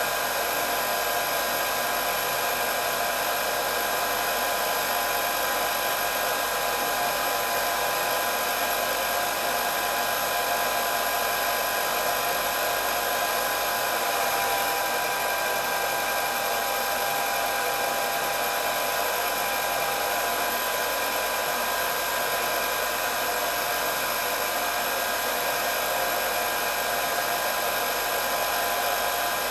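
Hair dryer running continuously, a steady rush of blown air with a constant motor whine.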